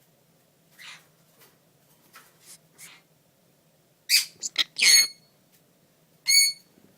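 Green-cheeked conure vocalising: a few soft short chattering calls, then a loud cluster of squawks about four to five seconds in and one more loud, clear squawk near the end.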